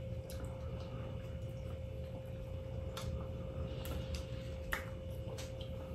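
Close-up eating sounds: a few soft mouth clicks from chewing seafood and small clicks from handling crab shells, spread out every second or so, over a steady low hum.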